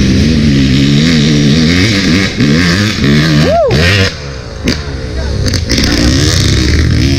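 Enduro dirt bike engine riding a trail under changing throttle, its pitch rising and falling. About three and a half seconds in it revs sharply up and back down, then runs quieter for about a second before building up again.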